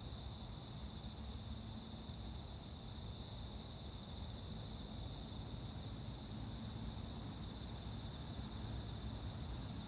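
A continuous chorus of crickets and other autumn insects trilling: a steady, unbroken high-pitched ringing. A low steady rumble sits underneath.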